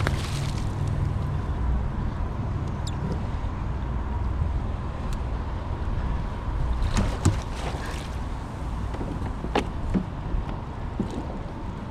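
Steady low rumble and wash of wind and water around a fishing kayak, with a few short sharp knocks and clicks in the second half.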